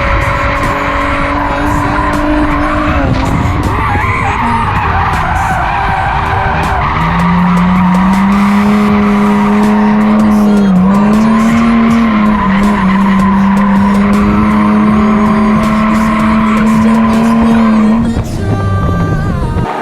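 Drift car's engine held at high revs with tyres skidding through a slide. The revs climb about seven seconds in, hold steady, and fall away near the end.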